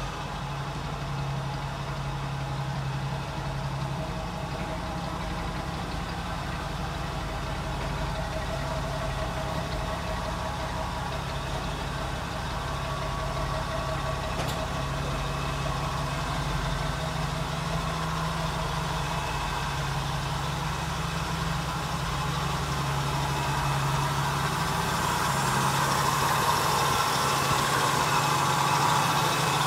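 1985 Jeep CJ-7's engine idling steadily, growing a little louder near the end.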